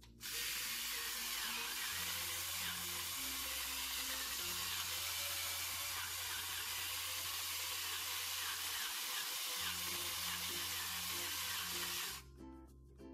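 Electric pepper grinder running, grinding black pepper: a steady hiss that starts suddenly and cuts off near the end.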